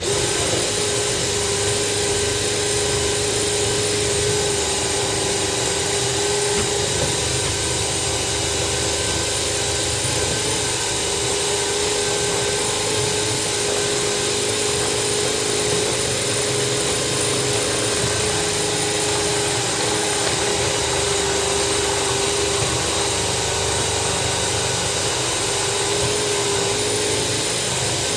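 Electric drain-cleaning machine starting abruptly and running steadily at a constant pitch, its motor spinning a steel wire cable inside a kitchen sink drain pipe clogged with grease.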